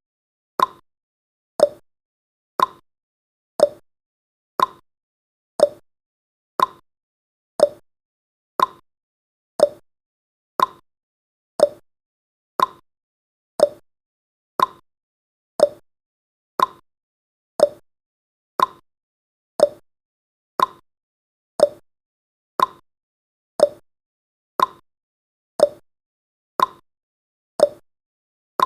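Clock-tick sound effect of a countdown timer: one sharp, short tick every second, evenly spaced, with silence between.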